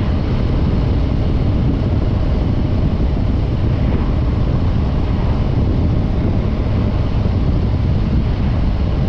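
Harley-Davidson Breakout 114's stock-exhaust Milwaukee-Eight 114 V-twin running steadily while riding, mixed with wind noise on the microphone.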